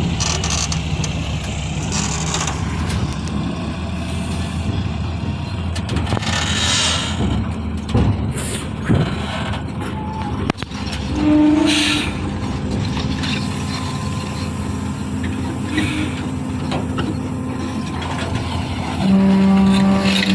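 Heavy truck engine running with a steady low drone, broken by a few short hissing bursts. A loud steady horn-like tone starts near the end.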